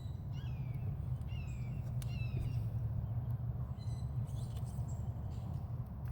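Birds calling in a series of short, downward-sliding chirps, several in the first couple of seconds and more about four seconds in, over a steady low rumble.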